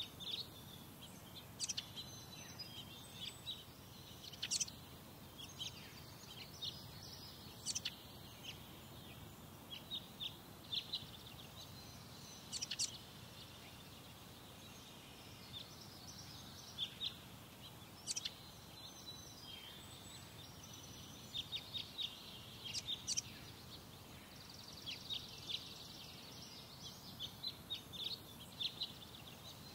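Birds chirping: many short, high chirps scattered throughout, some in quick runs of several, over steady low background noise.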